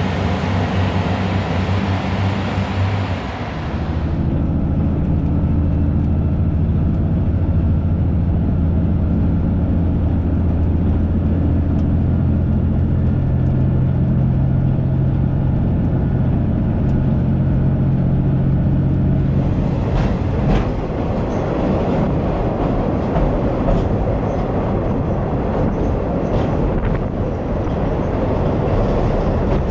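Train sounds in three short cuts. Train noise first, then a steady running hum from about 4 s in, then from about 19 s in a louder rushing running noise with a few clicks.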